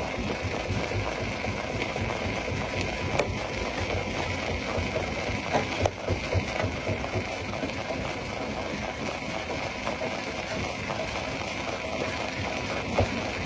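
Stone crusher machinery running steadily, with a few sharp knocks of rock against metal now and then.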